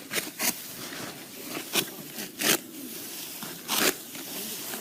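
Serrated sickle cutting through rice stalks by hand: about five short, crisp rasping cuts at uneven intervals.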